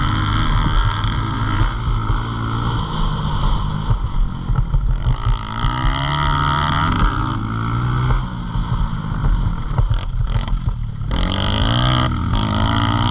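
Pit bike engines running and revving, pitch rising and falling as the throttle is worked, with a short let-off about ten seconds in.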